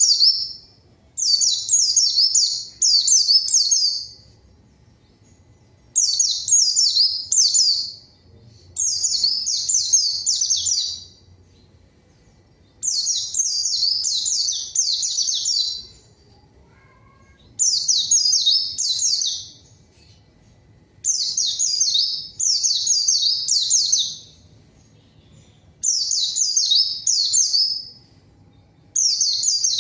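White-eye (pleci) singing a vigorous challenge song in repeated bursts of rapid, high chattering notes. Each burst lasts one to three seconds, with short pauses of a second or two between them.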